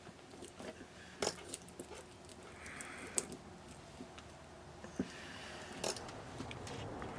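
Faint, scattered clicks and taps of small parts and tools being handled while working inside a small radio cassette player, with a soft breath or two between them.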